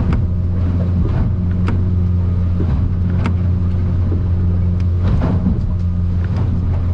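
Outboard engine droning steadily, heard inside a boat's enclosed cabin, with sharp slaps every second or two as the aluminium hull meets rough water.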